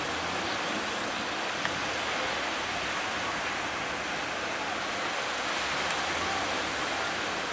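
Steady wash of large sea waves breaking at a river mouth, with no pause or change in level. A faint tick about a second and a half in.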